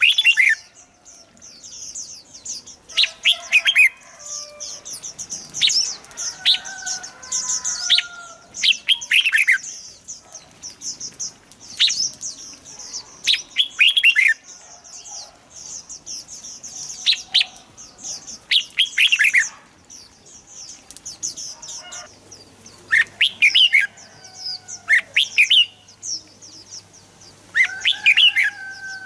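Red-whiskered bulbuls singing: short, bright, warbling phrases with quick falling notes, one every second or two, over a constant high-pitched twittering.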